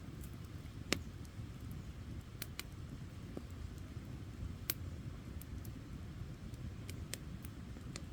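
Campfire burning: a steady low rumble of the flames with scattered sharp crackles and pops, the loudest about a second in.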